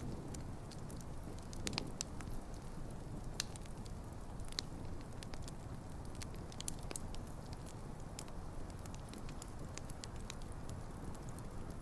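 Wood campfire burning: a steady low rush of flames with irregular sharp crackles and pops from the logs, a few louder pops around two, three and a half and four and a half seconds in.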